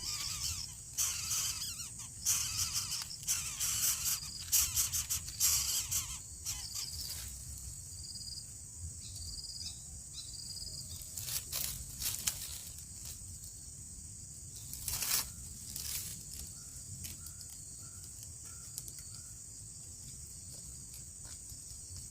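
Steady high-pitched insect drone of crickets, with irregular rustling and clicking over the first several seconds. A run of about five short, soft notes comes about two-thirds of the way through.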